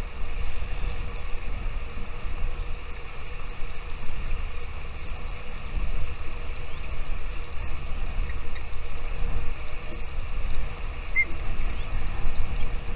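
Wind rumbling on the microphone, with a faint short bird chirp about eleven seconds in.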